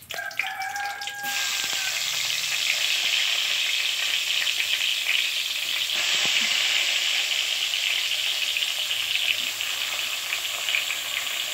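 Whole slit brinjals (small eggplants) sizzling and crackling in hot oil in a steel kadai as they are laid in one by one. The sizzle swells about a second or two in, then holds steady and busy.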